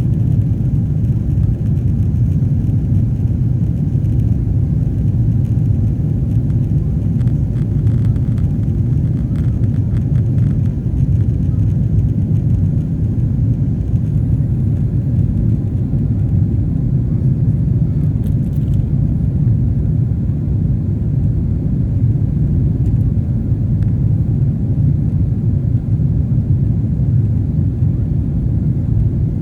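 Boeing 777-300ER's GE90 engines and airflow making a steady low rumble.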